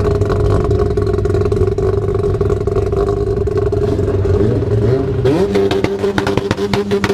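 Car engine idling, then revved up about four seconds in and held at high revs, with a rapid string of sharp cracks from the exhaust while it is held.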